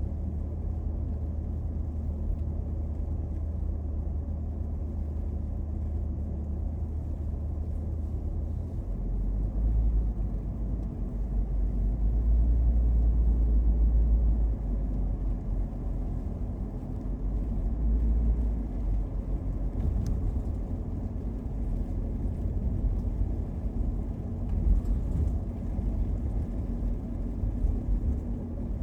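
A car's engine and tyre noise heard from inside the cabin: a steady low rumble that swells louder for several seconds about ten seconds in, then settles again.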